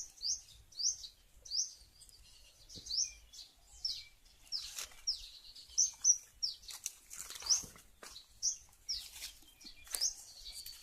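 A small bird chirping over and over: short, high, sweeping notes about twice a second.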